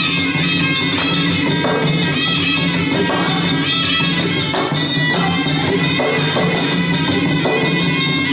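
Traditional Khmer boxing ringside music played continuously: a reed-pipe melody over drums and small hand cymbals keeping a steady beat.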